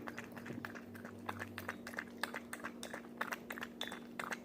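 Close-up chewing and eating, with wet mouth clicks and smacks coming irregularly, over a steady low hum.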